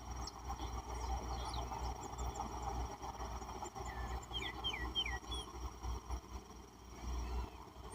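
Wild birds calling: scattered short high chirps and, around the middle, a run of four quick downward-swooping notes. Underneath is a steady dense chatter, a thin steady high tone and a low rumble.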